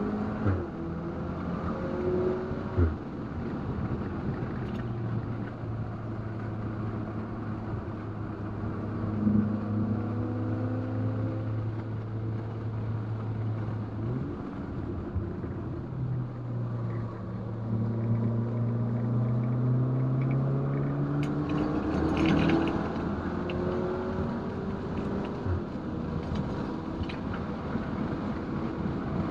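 Stage 2-tuned 2019 VW Golf R's turbocharged 2.0-litre four-cylinder engine under hard track driving. The engine note holds steady for several seconds, drops about halfway through, then climbs again as the revs rise.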